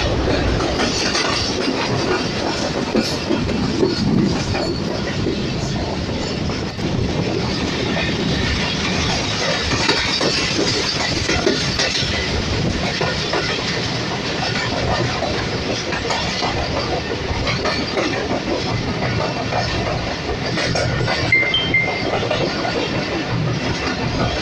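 Passenger train running at speed, a steady rumble with wheels clicking over rail joints.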